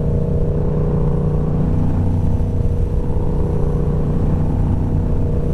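Motorcycle engine droning at steady revs while cruising on a highway, with wind and road rush over it.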